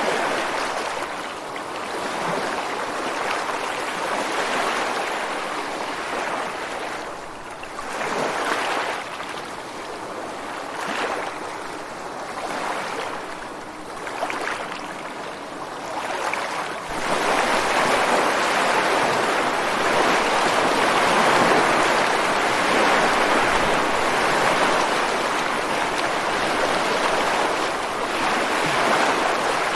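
Ocean waves breaking against rocks on the shore, a continuous rushing wash that swells and ebbs, then grows louder about halfway through and stays loud.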